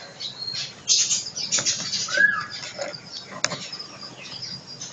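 Caged birds fluttering and rustling in short irregular bursts, with one short arching chirp about two seconds in and a sharp click a little later.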